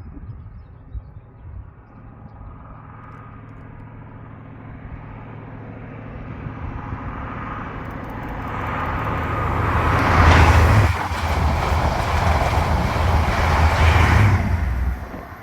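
CrossCountry High Speed Train with Class 43 power car 43301 leading, passing at speed: the diesel engine's drone and the rumble of the wheels grow steadily as it approaches, are loudest for the last few seconds, then drop away sharply near the end.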